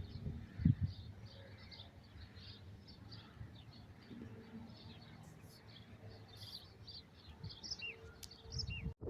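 Small birds chirping faintly and continuously, with a couple of short falling calls near the end and two dull low thumps in the first second.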